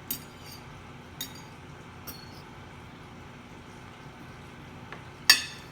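Tableware clinking: three light clicks in the first two seconds, then one louder, briefly ringing clink about five seconds in.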